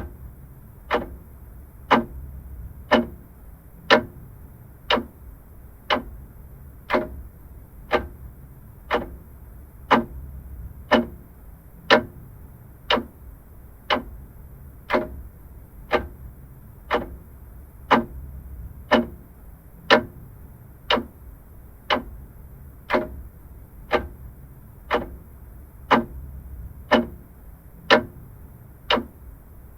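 Vintage clock ticking steadily, one sharp tick a second, over a faint low hum.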